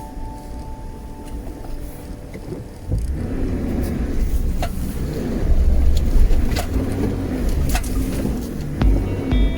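A vehicle driving, a low rumble that grows much louder about three seconds in, with scattered knocks and rattles as it goes over rough ground.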